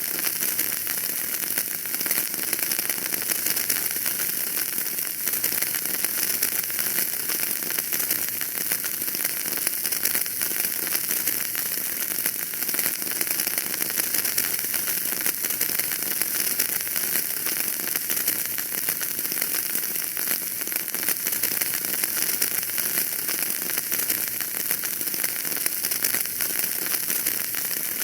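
Wood fire burning in a fireplace, with dense, continuous crackling over a steady hiss.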